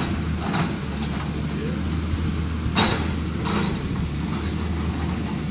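Heavy demolition machinery running with a steady low engine hum, with a few sharp cracks and clinks of breaking material, the loudest about three seconds in.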